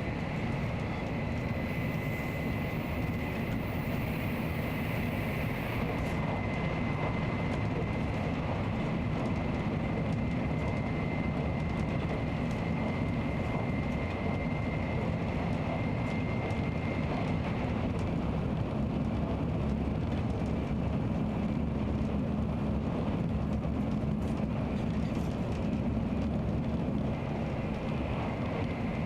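Nozomi Shinkansen bullet train running at speed: a steady, even rumble and rush. A faint high whine sits over it and fades out about halfway through.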